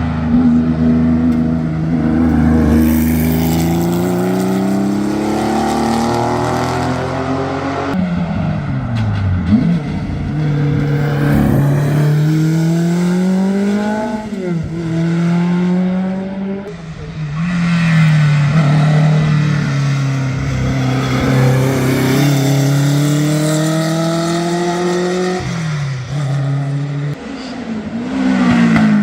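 Historic competition car engines at full throttle on a hill climb, the note climbing through the revs and dropping sharply at each gear change, several times over.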